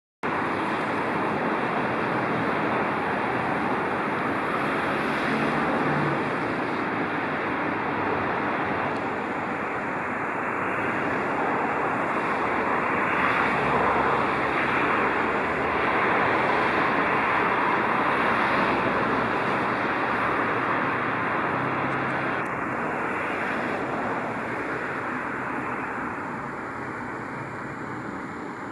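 Steady rushing noise of the seashore, waves and wind together, swelling a little midway and easing slightly near the end.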